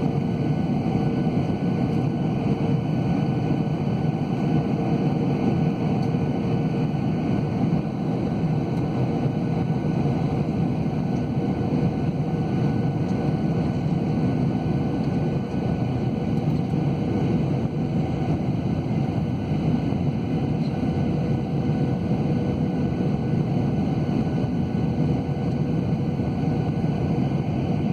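Steady cabin noise inside a Boeing 737-800 airliner: an even rush of jet engines and airflow, with a faint hum held at one pitch.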